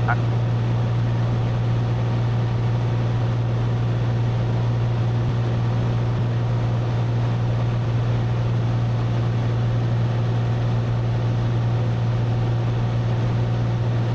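Cessna 182's engine and propeller droning steadily, heard inside the cabin, with power pulled back for the descent toward the airport.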